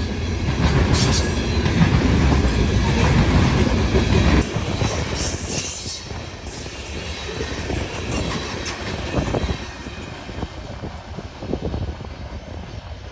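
A freight grain train rolling past close by: a heavy rumble that drops off abruptly about four seconds in, then lighter wheel-on-rail noise with some squealing and scattered clicks from the cars' wheels.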